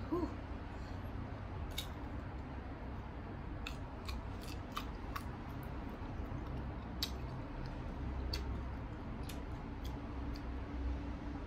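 Chewing firm, unripe green mango: a scattering of sharp, crisp crunches at irregular intervals.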